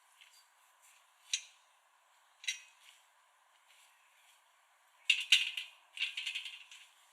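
Footsteps crunching in snow: two single crunches in the first few seconds, then a louder, quicker run of crunching and crackling in the last two seconds.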